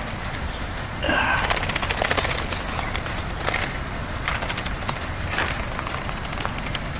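A bird's wings clattering in a rapid run of flaps for about a second as it takes off, just after a short call. Scattered single flaps or clicks follow.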